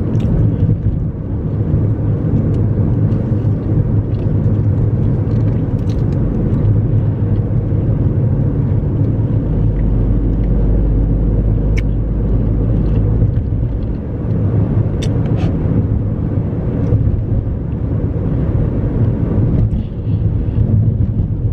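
Steady low road-and-engine rumble heard from inside a car's cabin while driving, with a few faint clicks.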